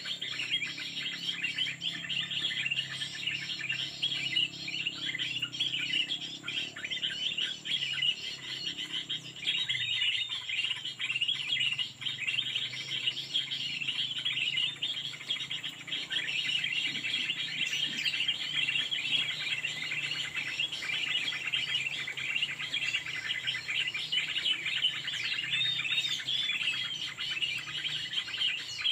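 Small songbirds chirping and twittering continuously in a dense, unbroken chorus, with a faint steady high whine underneath.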